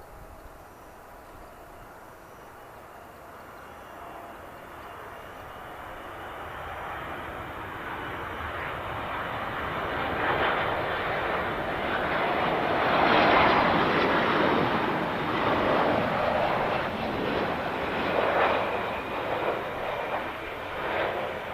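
Airliner's engines growing louder as the aircraft approaches and passes close by, peaking about 13 seconds in, then a loud wavering roar that slowly begins to fade.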